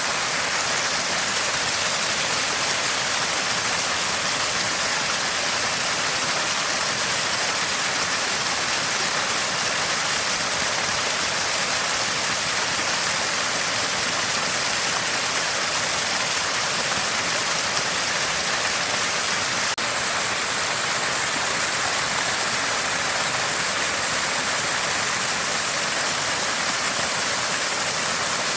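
Small spring of fresh water gushing out and gurgling constantly, a steady, unbroken sound of running water.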